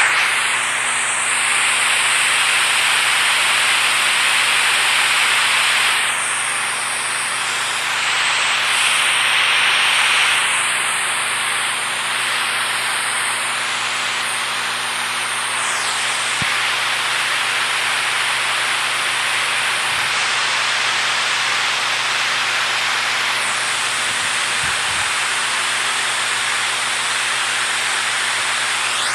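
Steady rushing water: a dense, loud hiss whose tone shifts a few times.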